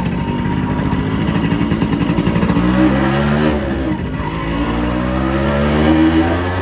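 Yamaha RX100's two-stroke single-cylinder engine, its silencer baffle still fitted, running unevenly at low revs, then rising in pitch twice as it accelerates.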